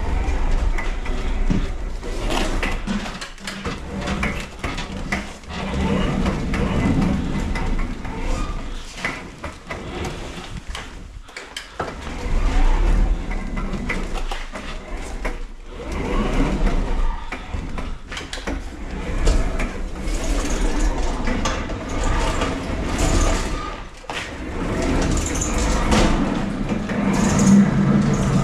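Goods being unloaded from a delivery truck: a steady low rumble from the running truck, with repeated clattering and knocking from cargo handling and doors.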